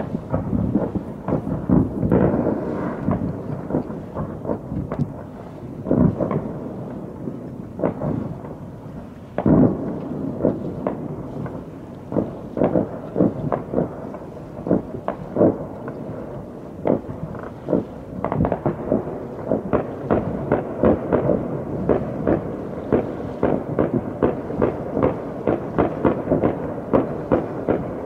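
Distant fireworks going off: a string of low booms and pops, with one heavier boom about nine seconds in. Over the last ten seconds they come thick and fast as a rapid crackle of pops.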